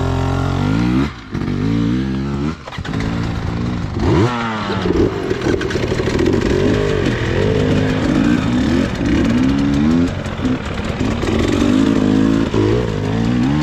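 Motorcycle engines running under way, pitch climbing and dropping again and again as they accelerate and shift gears; from about four seconds in, more than one engine is heard at once.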